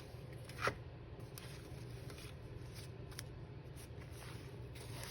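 Faint rustling and handling of paper and fabric notebook pieces over a low steady hum, with one short louder sound under a second in.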